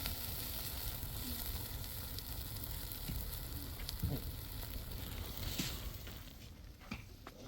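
Steady sizzling of something cooking on a hot pan, with a few small pops, dying down about six seconds in.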